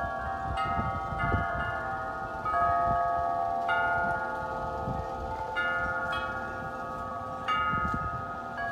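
Wind chimes ringing in gusty wind: their metal tubes are struck irregularly, about every second, and several tones overlap and ring on. Wind rumbles on the microphone underneath, rising and falling with the gusts.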